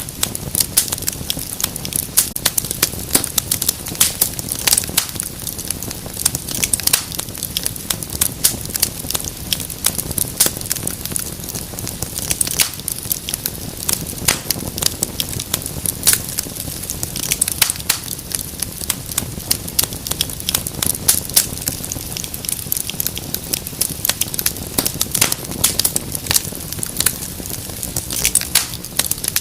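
Wood fire crackling in a fireplace: a constant stream of irregular sharp pops and snaps over a soft low hiss.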